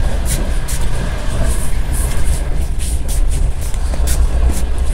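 Passenger train carriage running on the rails: a steady low rumble from the wheels and track, with irregular sharp clicks and rattles.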